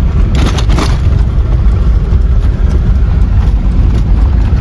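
Steady low rumble of a moving car, the Mahindra Xylo's road and wind noise, with a brief hiss about half a second in.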